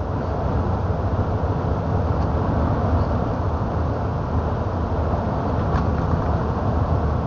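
Steady low rumble of a truck's engine and road noise heard from inside the cab while driving.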